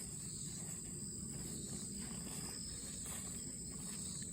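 Steady, unbroken high-pitched insect chorus of late-summer crickets in tall grass, over a low steady rumble.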